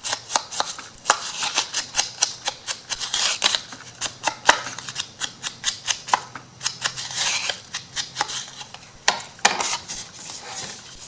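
Scissors snipping paper, a quick irregular run of sharp cuts, several a second, with paper rustling in between.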